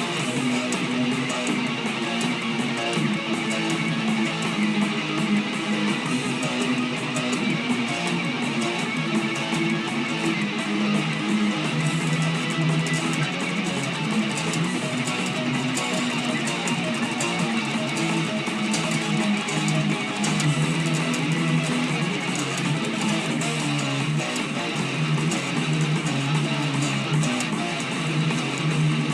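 Electric guitar, an Epiphone Explorer, playing a continuous heavy metal riff without a break, recorded through a laptop's built-in microphone so the low bass is missing.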